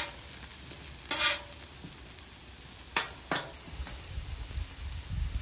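Steak fries sizzling in oil on a Camp Chef Gridiron flat-top griddle, with a steady hiss. A metal spatula scrapes across the griddle plate as the fries are tossed and flipped: one longer scrape about a second in, then two quick strokes about three seconds in.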